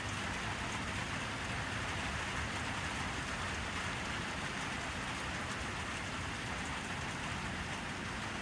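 Steady rain falling at night, an even hiss of rain with scattered drops pattering on surfaces.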